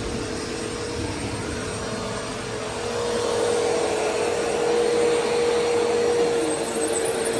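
Vacuum cleaner running steadily, a motor hum with a steady whine, growing louder about three seconds in.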